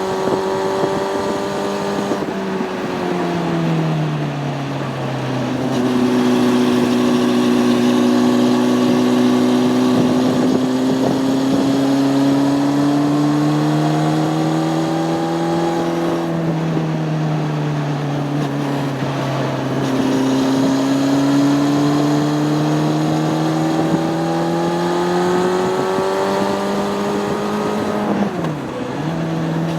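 Honda CB600F Hornet's inline-four engine under way: its pitch climbs slowly as it pulls, then falls off twice when the throttle is eased, with a quick dip and recovery near the end.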